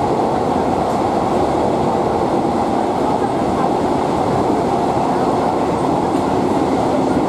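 Interior noise of a Class 142 'Pacer' diesel multiple unit under way: the steady running sound of its underfloor diesel engine and its wheels on the rails, holding level throughout.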